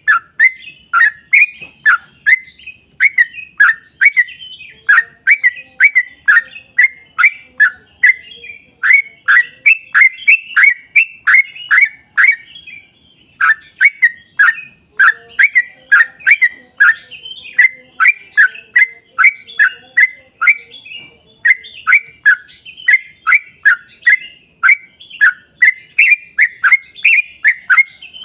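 Yellow-vented bulbul (trucukan) singing a long, fast run of short down-slurred notes, about two to three a second, broken by one brief pause about halfway through.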